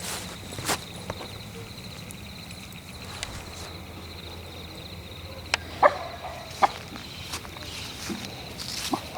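Footsteps and scattered twig snaps on a forest floor at night, over a steady high hum, with a cluster of sharp snaps or knocks a little past halfway that is the loudest part.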